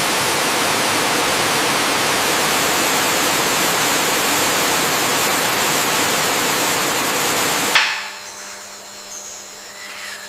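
Steady hiss of falling water that cuts off abruptly about eight seconds in, giving way to a much quieter forest background with thin, steady high-pitched tones.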